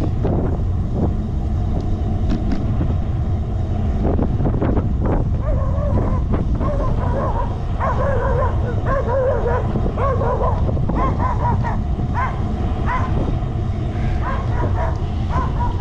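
A dog barking and yelping in short pitched calls, repeated from about six seconds in, over a steady rush of wind on the microphone of a moving bicycle.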